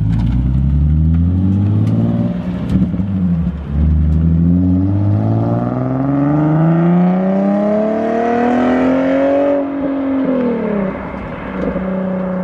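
Nissan 370Z Nismo's 3.7-litre VQ V6 with no muffler, accelerating hard away. The revs climb, drop at a gear change about three and a half seconds in, then climb again for about six seconds. Near ten seconds in the pitch falls away and settles to a steady lower note.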